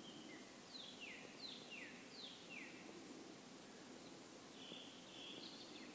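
Faint forest ambience with birdsong: a bird gives a short falling whistle three times in quick succession, then a few more high notes near the end, over a soft steady hiss.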